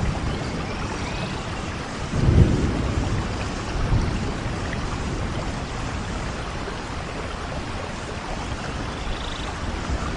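Steady heavy rain hissing, with a low rumble swelling about two seconds in and a smaller one near four seconds.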